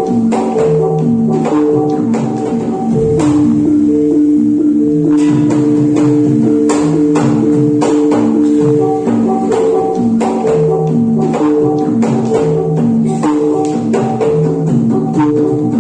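Javanese gamelan music for jathilan: struck pitched instruments repeat a short melodic figure of ringing notes over frequent sharp drum and percussion strikes.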